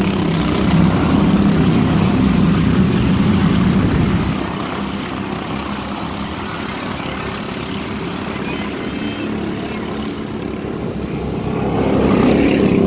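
Mini truck race engines running on a speedway oval as the trucks lap. The engines are loud for the first few seconds, fade as the field moves away, and swell again near the end as the trucks come back around.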